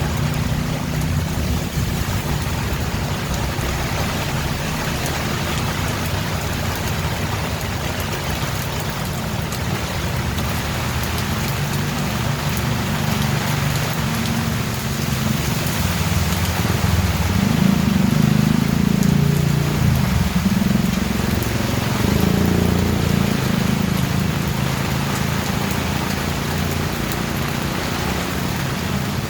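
Steady rain falling, an even hiss over a continuous low rumble. The rumble swells for a few seconds a little past the middle.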